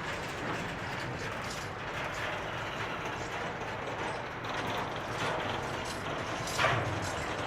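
Freight train wagons rolling past, wheels and bogies clattering steadily over the track with many small clicks, and one louder clank about two-thirds of the way through.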